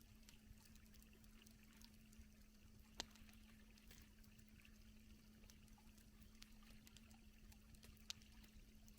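Near silence: a faint steady hum with scattered soft clicks, and two sharper ticks, one about a third of the way in and one near the end.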